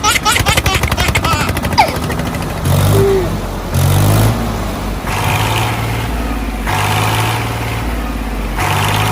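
A small motor running: a fast, even rattle for about the first two seconds, then a steady low hum that cuts in and out abruptly several times.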